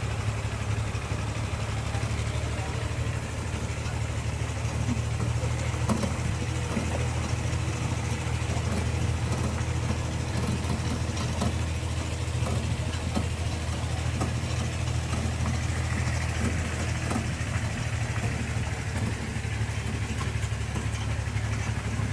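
A vehicle engine running steadily at low revs, a constant low hum, with scattered small knocks and rattles over it.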